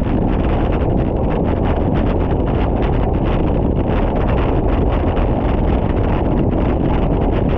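Wind rushing over the microphone of a camera on a moving bicycle: loud and steady, with a heavy low buffeting rumble.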